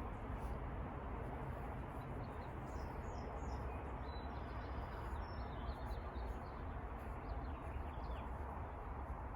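A few faint, short bird chirps over a steady outdoor background hiss.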